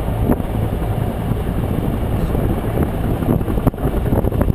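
AH-1 Cobra helicopter's engine and rotor noise heard from inside the cockpit, a loud steady drone with a low hum.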